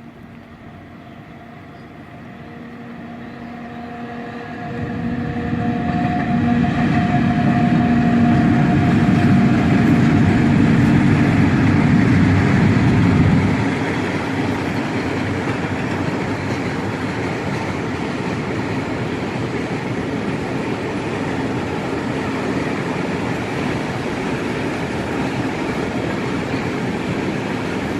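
Freight train passing: the locomotive's hum grows louder as it approaches and is loudest for several seconds, then drops off about 13 seconds in. A steady rumble of the freight wagons rolling by on the rails follows.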